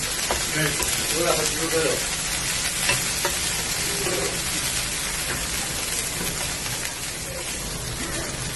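Chopped onions and green onion stalks sizzling in hot oil in a frying pan as a wooden spoon stirs them: a steady frying hiss.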